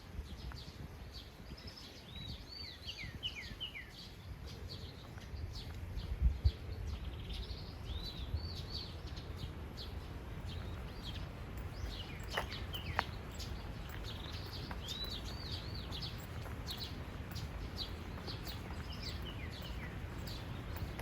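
Small birds chirping over and over in short, high, arched notes, some sweeping downward, over a steady low rumble. A couple of dull bumps come about six seconds in.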